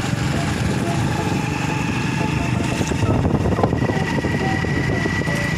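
Steady rain falling, a dense low patter of drops, with a faint thin high tone coming in about halfway through.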